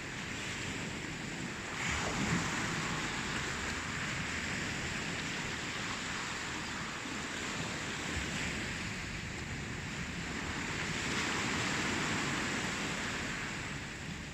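Ocean surf: a steady wash of waves that swells about two seconds in and again near the end.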